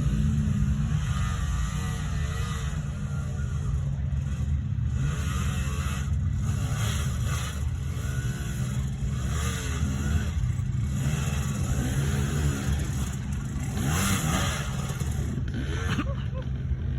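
Dirt bike engine running, revving up and down again and again as the throttle is worked.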